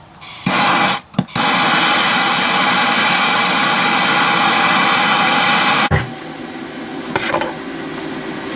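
Handheld MAPP gas torch hissing as it preheats the steel before welding. It starts, cuts out briefly about a second in, then runs loud and steady until about six seconds in, when it gives way to a quieter steady noise.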